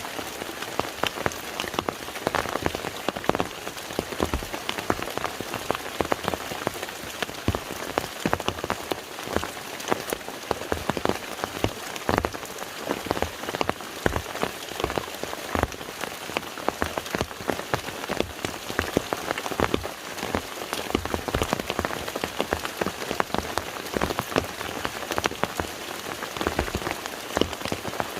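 Steady rain falling on a lake's surface: a constant hiss studded with many separate, sharp drop splashes.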